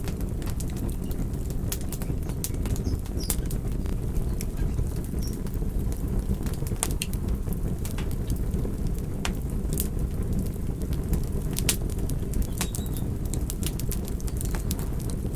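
Wood campfire crackling: a steady low rumble of burning with frequent, irregular sharp pops and snaps.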